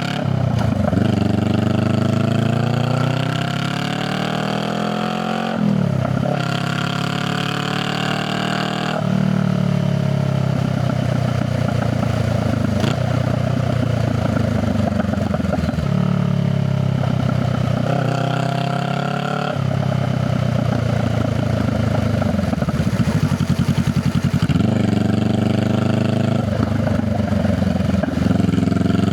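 Honda Rebel 500 parallel-twin engine and exhaust under way. It repeatedly climbs in pitch as the bike accelerates, then drops sharply at each upshift. Between the shifts come stretches of steady cruising and easing off the throttle.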